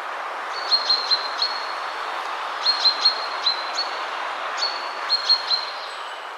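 A steady rush of wind through trees, with a small songbird singing three short phrases of quick, high chirping notes about two seconds apart.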